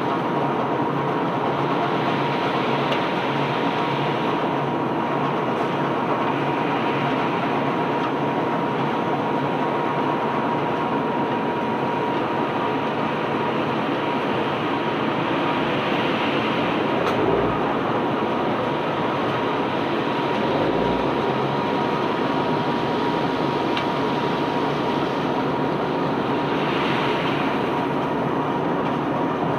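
Ship's conveyor belt running steadily as it carries sand off the vessel: a continuous rumble and rattle of the belt and rollers, with a steady hum held through it.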